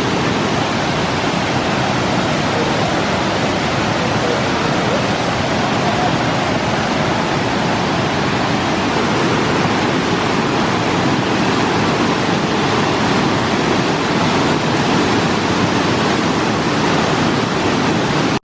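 Waterfall close up: a loud, steady rush of falling water.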